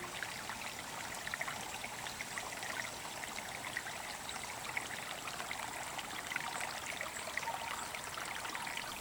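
River water trickling and lapping at the bank: a steady, soft hiss dotted with many small, irregular splashing ticks.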